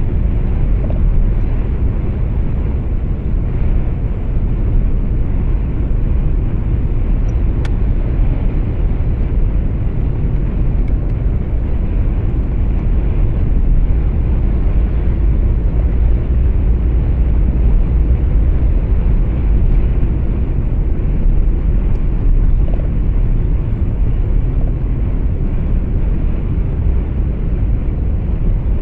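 Steady low rumble of a truck on the road, engine and tyre noise heard from inside the cab. A faint click sounds about eight seconds in.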